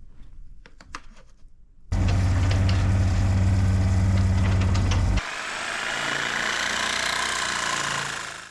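An engine running with a low, steady rumble, starting abruptly about two seconds in and cutting off sharply a few seconds later, followed by a steady hissing noise that fades near the end.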